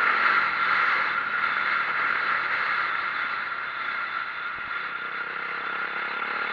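A 2004 Yamaha YZ450F four-stroke dirt bike being ridden along a trail, its steady running noise getting gradually quieter.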